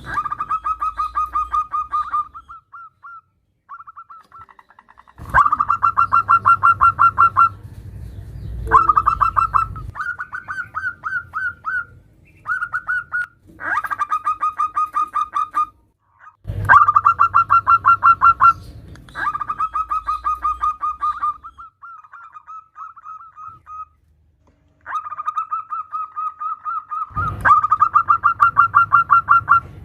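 Zebra dove (perkutut) calls, presented as a female's call to a male: repeated runs of rapid, evenly pulsed notes, each run lasting a second or two, with short pauses between runs.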